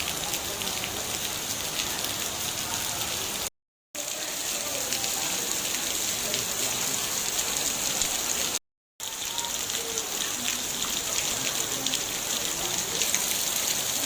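Steady rain falling, with a dense pattering of drops on a surface. It cuts out to silence twice for a moment, at about a third and about two thirds of the way through.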